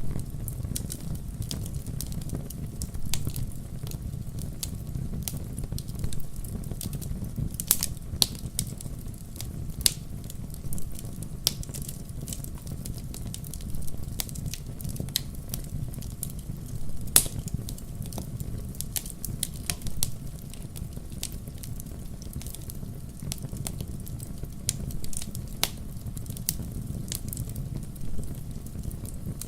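Wood fire burning in a fireplace: a steady low rumble of the flames with irregular sharp crackles and pops of firewood, the loudest pop about halfway through.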